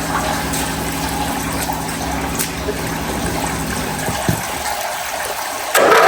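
Hotsy pressure washer running: a steady engine hum under a rush of water from the pump and hose. The sound jumps suddenly louder just before the end.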